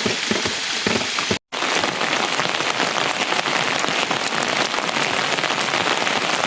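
Steady heavy rain falling, a dense patter of drops. The sound cuts out completely for a moment about a second and a half in.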